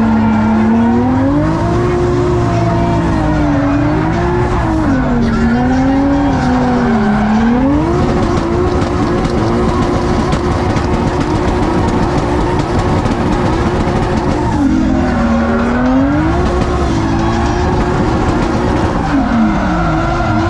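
Drift car engine revving up and down over tyre squeal. The revs climb about seven seconds in and hold high and steady for several seconds, dip around fifteen seconds, then rise and fall again near the end.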